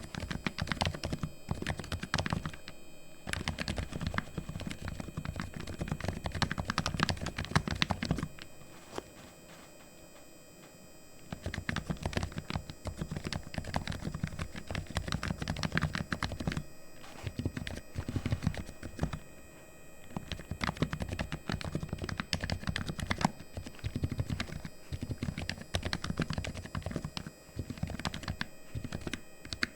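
Typing on a Razer Huntsman V2 Linear keyboard with fully lubed linear optical switches: fast, continuous keystrokes, with a pause of about three seconds some eight seconds in.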